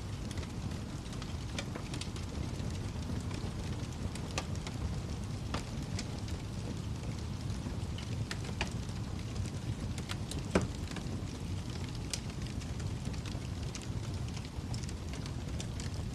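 Wood fire crackling in a fireplace: a steady low rumble of flames with scattered sharp pops and snaps, and one louder pop about two-thirds of the way through.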